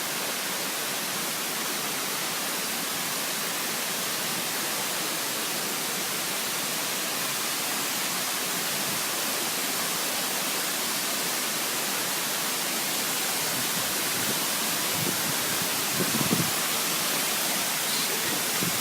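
Waterfall: falling water rushing with a steady, even sound.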